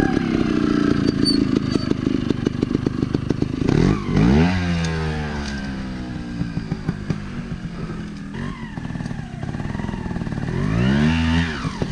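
Motorcycle engines. For the first few seconds an engine runs close by with a fast, even putter. Then a Beta Evo 300 trials bike's engine revs up sharply at about four seconds, its pitch falling and rising as it is ridden off, and it rises and falls again in another rev near the end.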